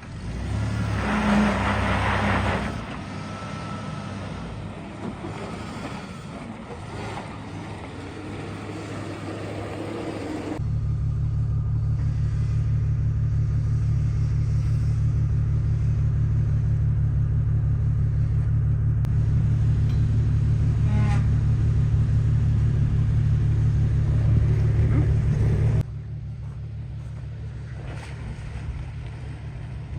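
Ford Ranger's 4.0 V6 engine running at low speed on a rough off-road trail, heard from inside the cab. A louder, steady low drone comes in abruptly about ten seconds in and cuts off suddenly about twenty-six seconds in.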